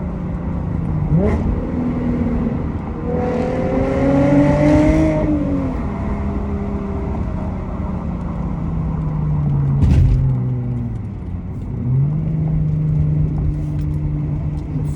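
Mercedes-Benz W204 C300's V6 engine and exhaust driven hard: a quick rev blip about a second in, a pull with rising pitch around four to five seconds in, and a sharp crack near ten seconds. The revs then fall and jump back up near twelve seconds, a rev-matched gear change, holding steady after.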